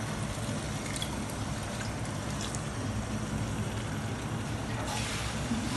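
Tomatoes, green chillies and ginger-garlic paste frying in oil in an aluminium pot, a steady sizzle over a low hum, with a few faint ticks.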